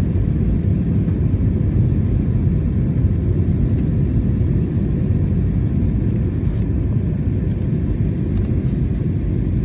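Steady low rumble of an Airbus A321 in flight, engines and airflow heard from inside the passenger cabin during the descent.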